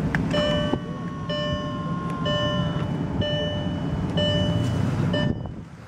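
Maybach 62 S 6.0-litre V12 idling while the car's key-reminder warning chime rings about once a second, six times; the engine shuts off near the end.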